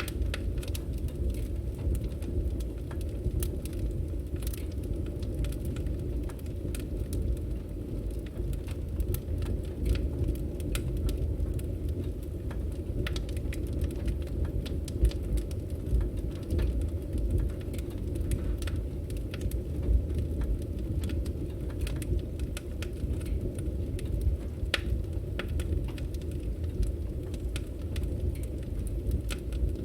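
Firewood burning with a steady low rumble and frequent sharp crackles and pops scattered throughout.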